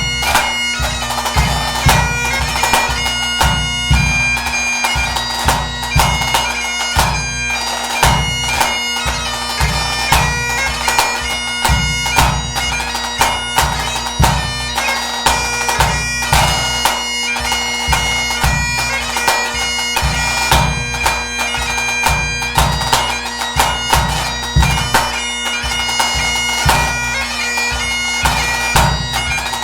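Pipe band bass drum beating a steady rhythm under a Highland bagpipe playing a tune over its constant drones.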